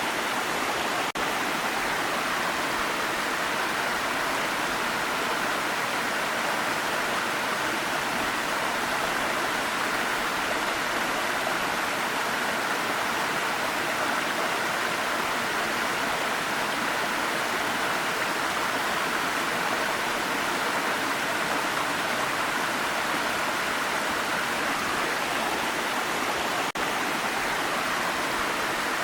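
Waterfall: a steady, even rush of falling water, with two very brief dips in level, about a second in and near the end.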